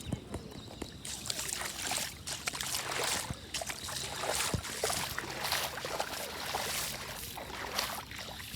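Footsteps wading through shallow floodwater: irregular splashing and sloshing.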